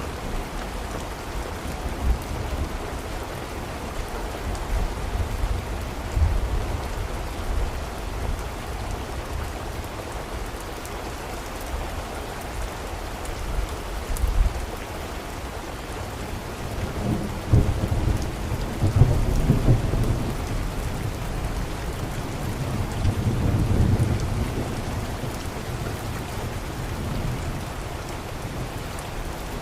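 Steady rain falling, with low rolls of thunder swelling twice in the second half.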